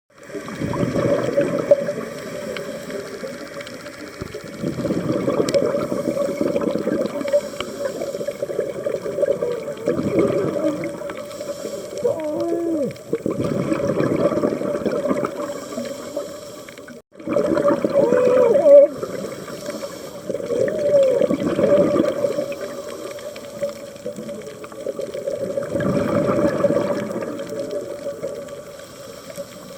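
Scuba diver breathing through a regulator underwater: exhaled bubbles rush out in a surge every four seconds or so. A few muffled, wavering voice sounds are spoken into the regulator around the middle.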